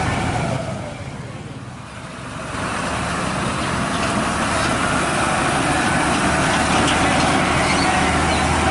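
Truck engine running, dropping away briefly about a second in, then building back up to a steady run.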